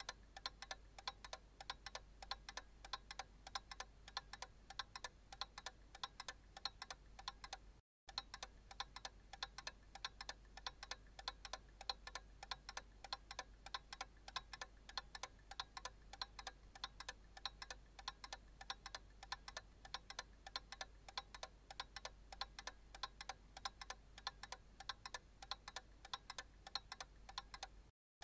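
Analog clock ticking steadily in an even run of sharp ticks, with a momentary dropout about eight seconds in.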